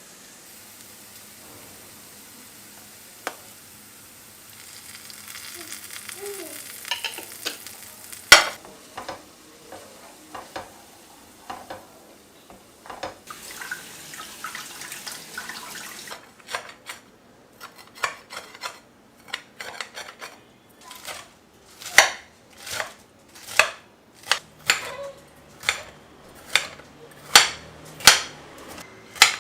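Kitchen cooking sounds: a steady hiss with scattered clicks of utensils, with one sharp knock about a third of the way in. In the second half comes a run of sharp knocks, roughly one or two a second, louder near the end.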